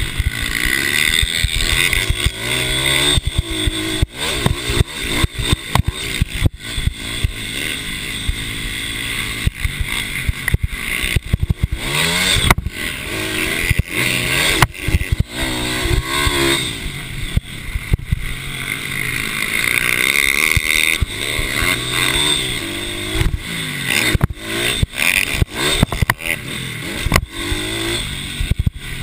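Small racing motorcycle engines of mini bikes revving hard, their pitch climbing and falling again and again, with frequent sharp breaks in the engine note.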